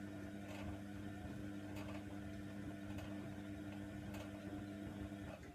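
Hoover Nextra washer dryer in its wash cycle, the drum turning with a steady motor hum and a light click about every second and a bit.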